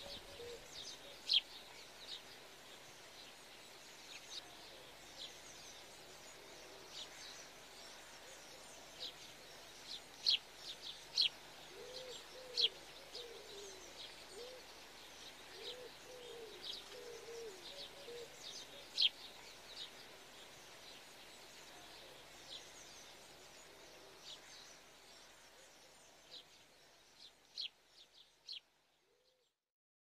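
Birds chirping: scattered short, high chirps, with a short series of lower calls about halfway through, fading out near the end.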